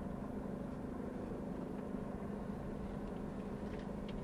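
Camper van engine running steadily at low speed, heard from inside the cab as a low hum, with a few faint clicks near the end.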